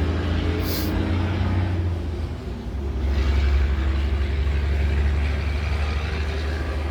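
Steady low rumble of a semi truck's diesel engine heard inside the cab. A short hiss comes just under a second in, and traffic noise swells louder about three seconds in.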